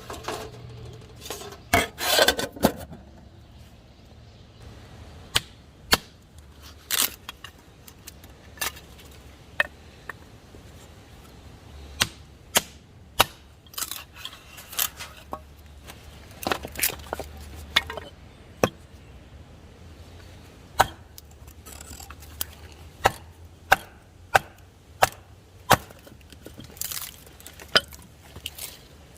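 Knife chopping on a wooden cutting board: single sharp knocks about once a second, unevenly spaced, with a louder rustling scrape about two seconds in.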